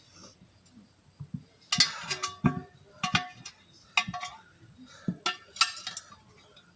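Metal tire tools clinking and knocking against a wheel rim, about six sharp ringing strikes spread over a few seconds, as a tire is pried off the rim by hand.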